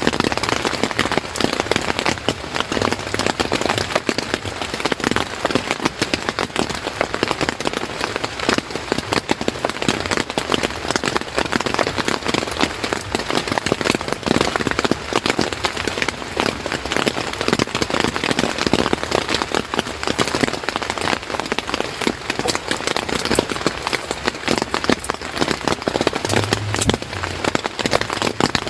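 Steady heavy rain falling, a dense, continuous patter of many drops striking a surface.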